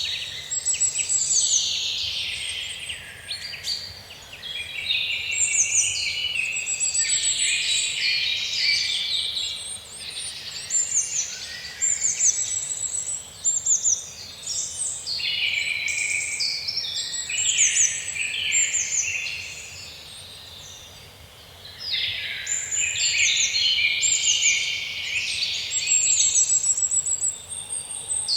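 Several songbirds singing at once, overlapping warbled phrases and high rapid trills. The singing thins out briefly about two-thirds of the way through, then resumes.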